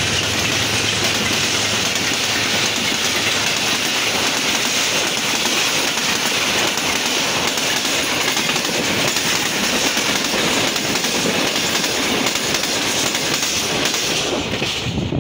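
Express passenger train running through the station at about 105 km/h close by: a loud, dense rush of wheel and coach noise that falls away near the end as the train clears.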